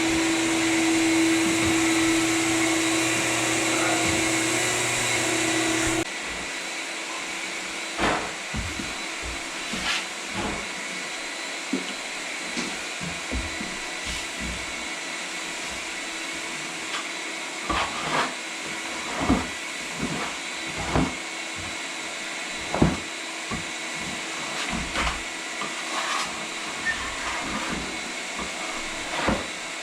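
Floor sanding machine running steadily with a strong hum. About six seconds in it drops abruptly to a quieter steady whir, with scattered knocks and clicks over it.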